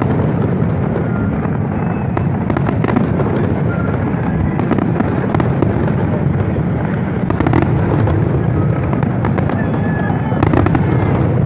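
Fireworks display at full intensity: a continuous barrage of bangs and crackles over a dense low rumble, with no pause.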